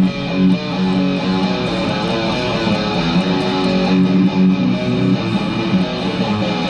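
Guitar music, plucked and strummed notes ringing on steadily.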